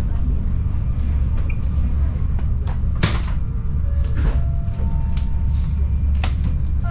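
Steady low rumble of a moving passenger train heard from inside the carriage, with scattered sharp clicks and knocks from the car body.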